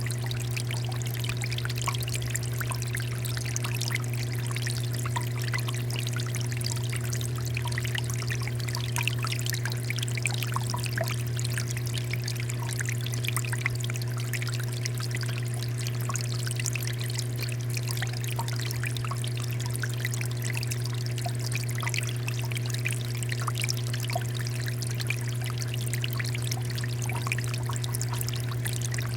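Water fountain flowing, splashing and trickling steadily, with a steady low hum underneath.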